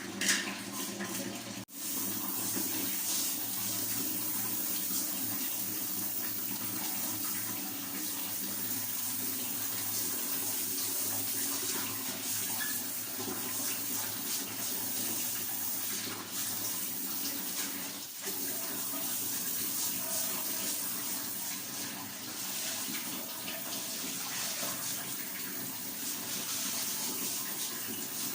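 Water running steadily, with a short break about two seconds in.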